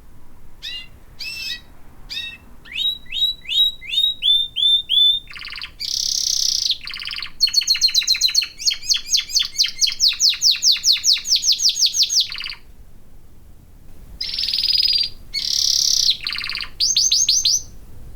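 Domestic canary singing: a string of rolling phrases, each a rapid repeat of one high note. A long, fast trill fills the middle, with buzzy phrases before and after it and a short pause near the end.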